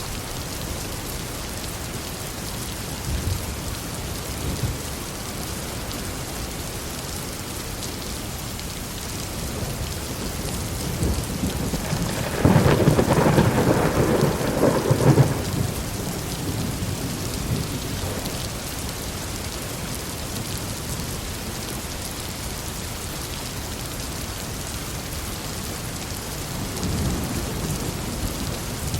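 Steady heavy rain falling, with a long peal of thunder that builds about a third of the way in and rumbles loudly for about three seconds before fading, and fainter low rumbles of distant thunder near the start and near the end.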